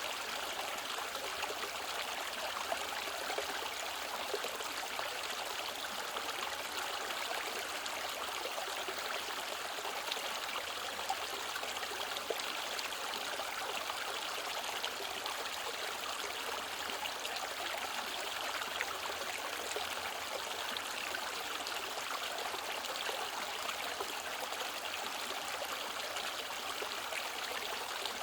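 Mountain valley stream flowing over rocks: a steady, unbroken babble of running water with small splashes and trickles through it.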